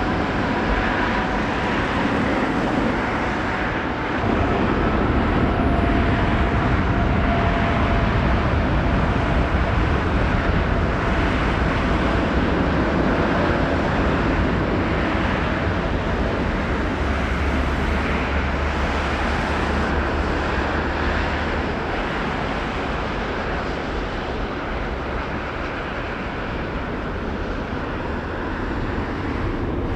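Jet airliner engine noise, a steady rumble with a faint high whine running through it.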